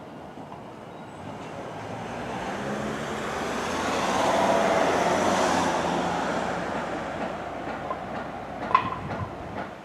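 Container wagons of a freight train rolling on the rails as the train goes away round a curve. The wheel noise swells to its loudest about halfway through and then fades, with a few sharp clicks near the end.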